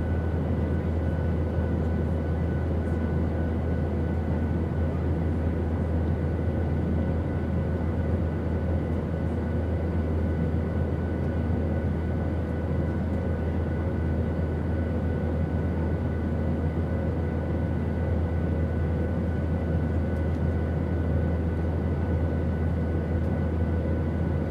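Steady airplane engine drone: an even, low rumble with a faint steady hum of several tones above it, unchanging throughout.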